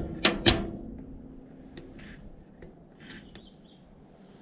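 Old truck starter drive being worked by hand to make its pinion kick out: two sharp metallic clacks with a brief ring in the first half second, then a few faint clicks and light squeaks.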